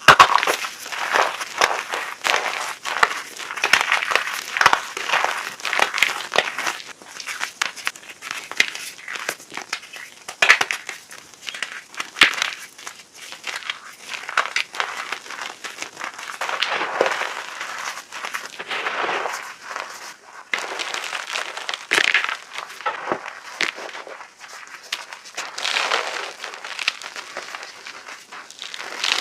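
Chunks of reformed gym chalk being crushed and crumbled, a dense crunching and crackling that comes in repeated bursts.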